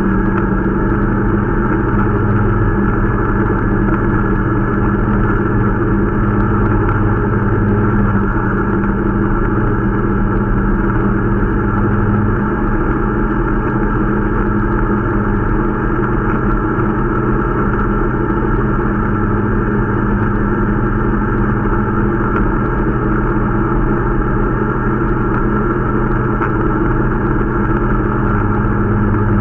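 Irbis Dingo T125 snowmobile's 125 cc single-cylinder four-stroke engine running steadily at an even speed while being run in.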